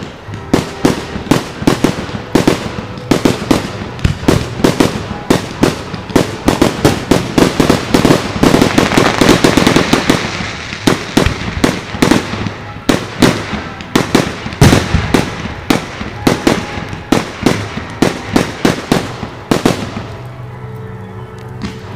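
Fireworks going off in a rapid, continuous run of bangs and crackles, a few each second. They are thickest around the middle and die away near the end.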